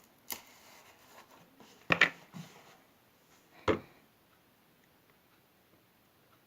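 A few sharp clicks and knocks from handling a glue bottle and a bowl while adding glue to slime. The loudest comes about two seconds in.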